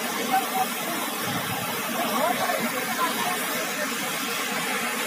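Waterfall: a steady, even rush of falling water, with faint voices in the background.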